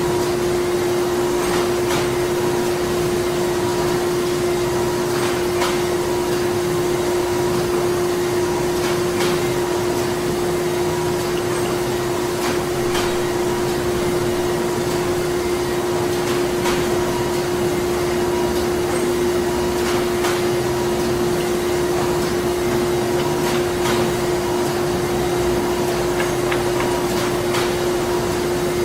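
Printing-factory machinery running steadily: a constant hum with one strong steady tone, under a wash of mechanical noise and scattered faint clicks and knocks.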